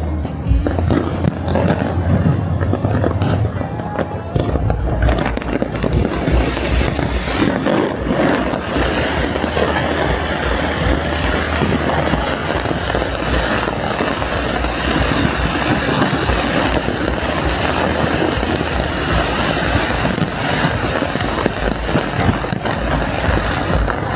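A fireworks display bursting in a rapid, unbroken barrage of bangs and crackles, with a music soundtrack playing underneath.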